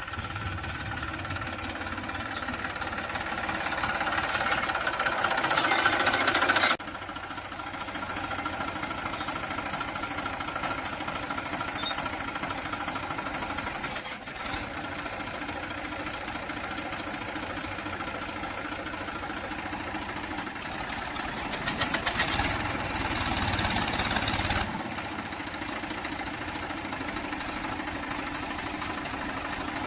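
Tractor diesel engine running. It grows louder over the first several seconds, then drops back suddenly, and runs louder again for a few seconds later on.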